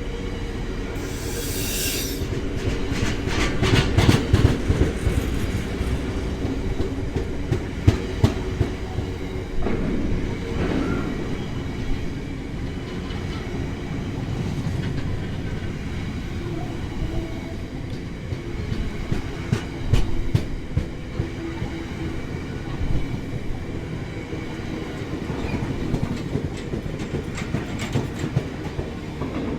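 A train passing on the line: a steady rumble with the wheels clicking over rail joints throughout, and a brief high hiss about a second in.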